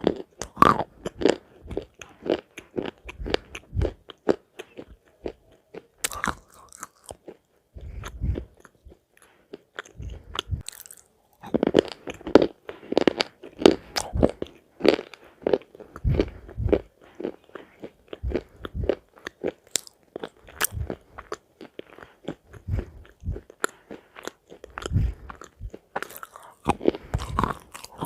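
A person biting and chewing crunchy food, a fast run of short, sharp crunches that eases into a quieter spell about ten seconds in and then picks up again.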